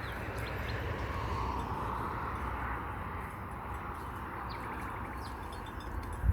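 Birds chirping in short, scattered high calls, with a brief quick trill near the end, over a steady hiss and a low rumble.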